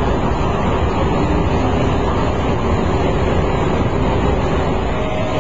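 Busy city street traffic: a steady wash of vehicle noise with no single sound standing out.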